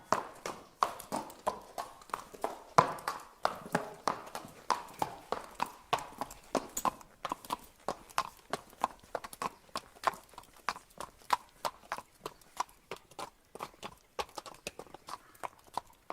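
Horse walking, its hooves clip-clopping in a steady run of sharp hoofbeats, about three a second.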